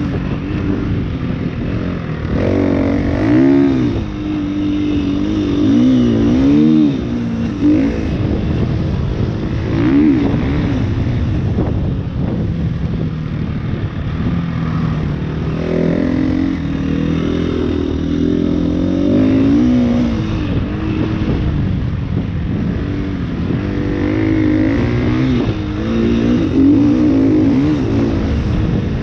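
KTM EXC-F 350 enduro motorcycle's single-cylinder four-stroke engine under way, its pitch rising and falling over and over as the throttle is opened and closed.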